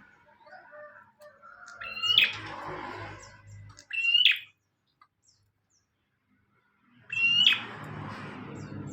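Prinia (prenjak) calling: three short bursts of sharp, quickly sweeping chirps, with a pause of near quiet between the second and third.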